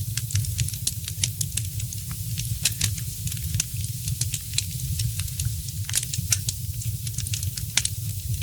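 Wood fire crackling: frequent small sharp pops at irregular intervals over a steady low rumble.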